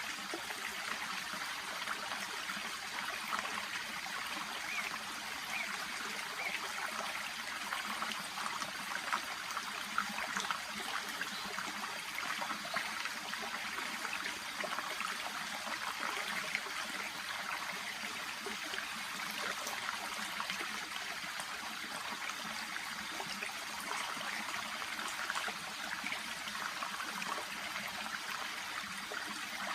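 Shallow brook babbling steadily, an even rush of flowing water with small splashes and trickles running through it.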